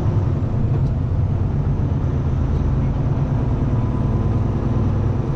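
Kenworth T680 semi truck's diesel engine running with a steady low drone.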